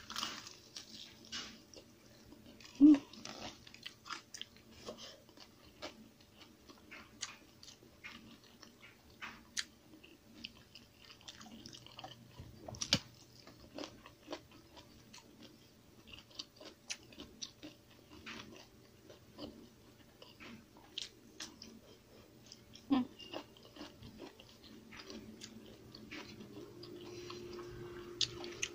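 Chewing and biting of fried pork belly and rice, eaten by hand: a run of small mouth clicks and light crunches, with two short louder low bumps, one about three seconds in and one later on.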